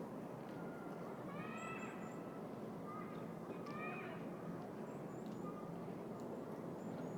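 City park ambience: a steady hum of distant traffic with birds calling over it. There are two drawn-out calls, about a second in and again near four seconds, and thin high chirps scattered through.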